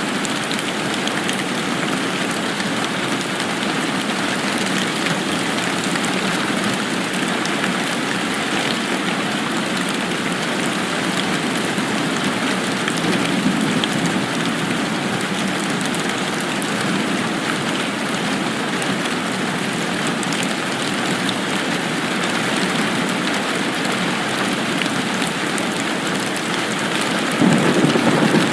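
Steady rain falling, an even hiss of drops. A louder low rumble of thunder sets in near the end.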